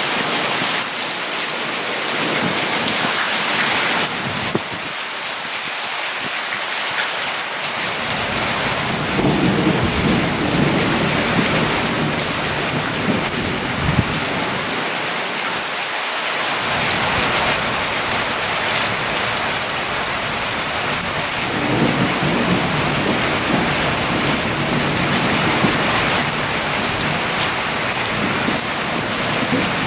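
Thunderstorm: rain falls with a steady hiss throughout, and thunder rumbles low beneath it, rolling in about nine seconds in and again through the second half, with one short sharp crack about halfway.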